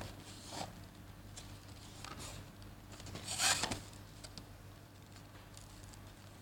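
Packaging of a model airliner being handled and opened: light rustles, scrapes and small clicks, with one louder scraping rustle about three and a half seconds in.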